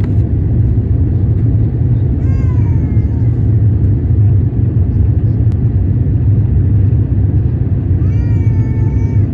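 Steady low rumble of an airliner's cabin noise, engines and airflow heard from inside the cabin. Two brief high-pitched wails with a falling pitch rise over it, one about two seconds in and one near the end.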